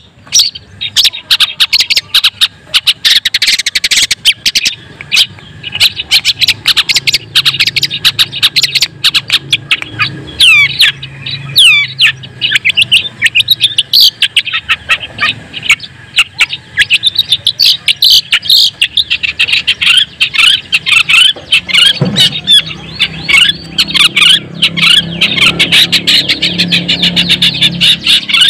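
Long-tailed shrike (cendet) singing: a continuous, rapid stream of sharp clicks, short chirps and quick whistled notes.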